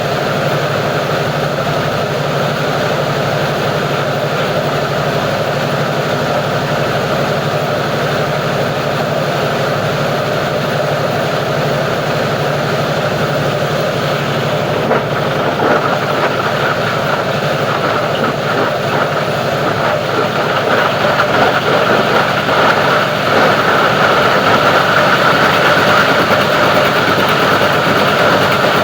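Plastic-recycling grinding machine running steadily with a loud, even mechanical drone. It grows somewhat louder in the second half.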